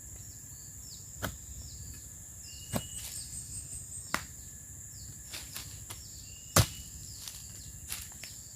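Tool strikes on bamboo: five sharp, single knocks at uneven intervals, the loudest about two thirds of the way in. A steady high insect drone runs underneath.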